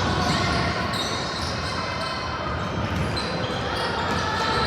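Basketball game noise in a gym: a ball bouncing on the court, sneakers squeaking, and a hum of crowd voices in the hall.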